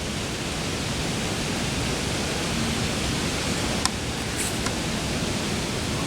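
Steady rain falling through the woods, an even hiss with a few single drops ticking clearly about four seconds in.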